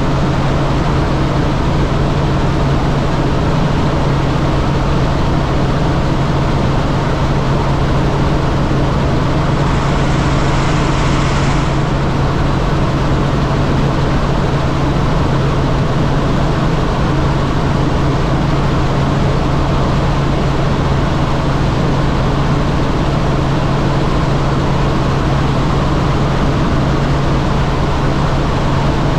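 Helicopter in flight, its engine and rotors running with a steady, loud drone over a constant low hum. A short hiss rises over it about ten seconds in.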